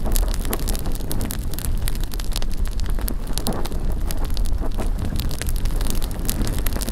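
Large wood bonfire crackling, with many irregular sharp pops and snaps, over a steady low rumble of wind on the microphone.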